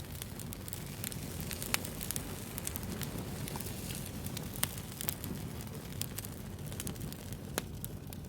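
Wood fire burning: a steady low rustle with frequent sharp pops and crackles, the loudest pops about two and four and a half seconds in.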